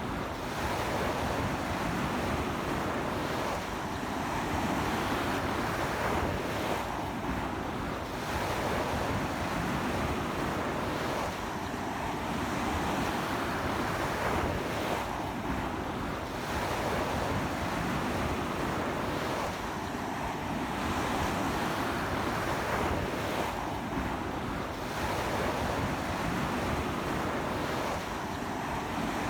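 Ocean surf washing onto a beach in strong sea wind: a continuous rushing wash that swells and eases about every four seconds.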